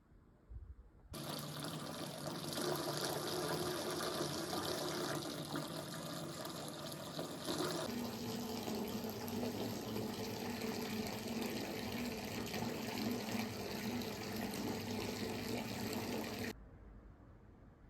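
Water running steadily, starting abruptly about a second in and cutting off sharply near the end; its tone shifts lower about eight seconds in.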